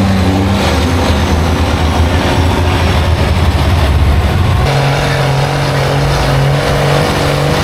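Off-road vehicle engine running loud through mud. About two-thirds of the way in, the engine note changes suddenly to a steadier, higher hum.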